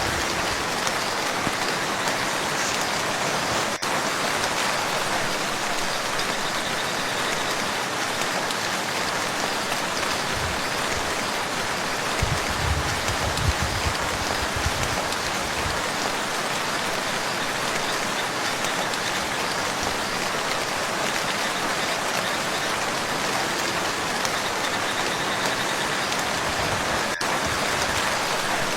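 Steady rain falling on a lake's surface, an even hiss of drops throughout, with a brief low rumble about halfway through.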